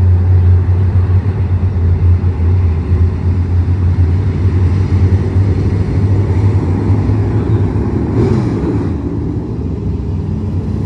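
Dirt-track race car engine running, a loud, steady low drone.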